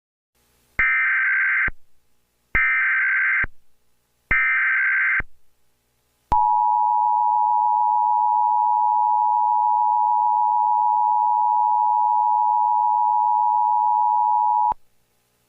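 Emergency Alert System header tones: three short bursts of SAME data, each a buzzy warble about a second long, then the two-tone attention signal held steady for about eight seconds before it cuts off.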